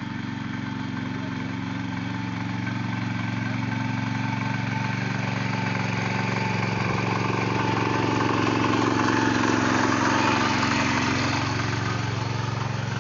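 Small tractor's engine running steadily, slowly growing louder to a peak about ten seconds in, then easing off a little.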